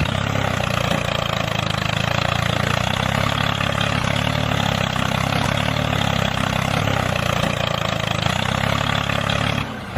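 An engine running steadily at idle, with a brief drop in level just before the end.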